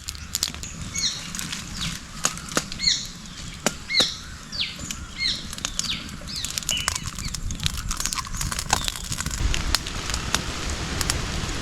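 Sharp crackling pops throughout, as from a cooking fire or frying. For the first seven seconds or so, a bird calls in short, quick, falling chirps. A steady hiss builds up over the last few seconds.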